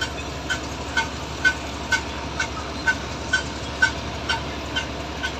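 Electronic warning beeper chirping steadily about twice a second, a short high beep each time, over a steady rumble of engines and traffic.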